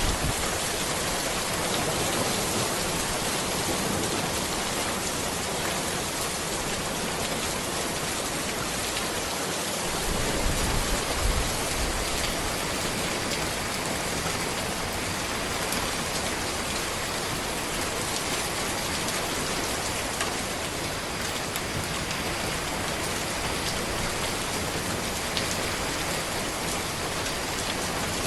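Steady rain falling on a road, a dense, even patter of drops, swelling slightly with a low rumble about ten seconds in.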